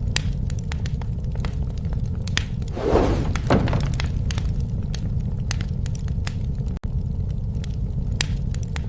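Wood fire crackling, with many sharp pops over a steady low rumble. About three seconds in, a louder rushing noise swells for about a second, and the sound cuts out for an instant near seven seconds.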